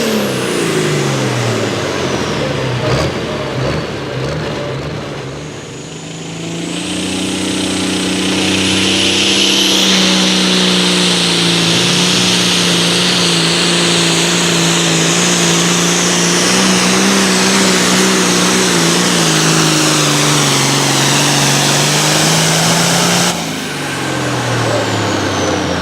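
Super Farm class diesel pulling tractor engine making a pull. About six seconds in it climbs to high, held revs with a whine and hiss above the engine note, and holds there for about seventeen seconds. Near the end it shuts off suddenly and the revs fall away.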